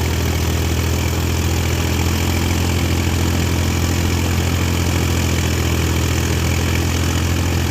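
Heavy diesel engine running steadily at low revs, an even low drone that holds constant throughout.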